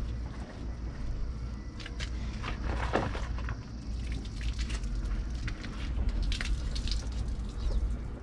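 Hand-washing a dirt bike: irregular wet scrubbing and splashing of soapy water on the bike, over a steady low rumble.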